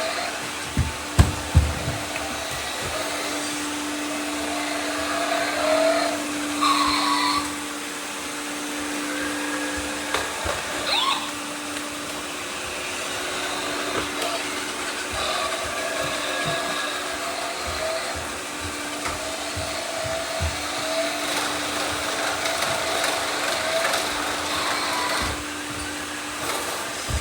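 Several robot vacuums running together: a steady whir of motors and brushes with humming tones that shift as the machines move. A couple of sharp knocks come about a second in.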